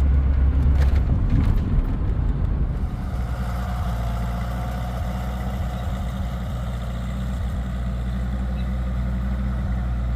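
Cummins diesel pickup engine running steadily with a low hum; the sound becomes steadier and slightly quieter about three seconds in.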